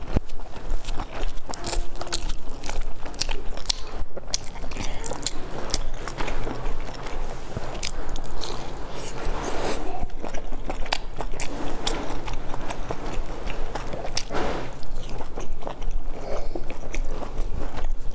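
Close-miked biting and chewing of a large stuffed bun, with many sharp, irregular mouth clicks throughout.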